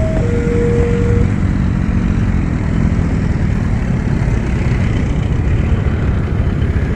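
A train passing close by with a loud, steady rumble. A two-pitch electronic tone or horn note sounds over it and stops about a second in.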